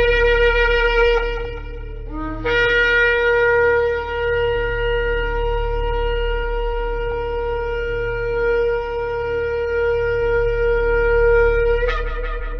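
Shofar (ram's horn) being blown. A short blast comes first, then a long blast held steady on one note for about nine seconds, which breaks upward in pitch at the end.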